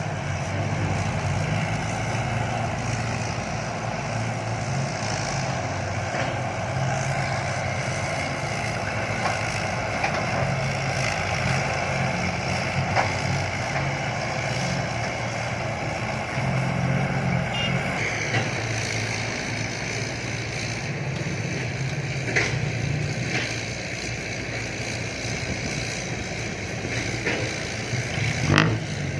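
Heavy diesel engines of dump trucks and an excavator running steadily, with a couple of sharp knocks late on.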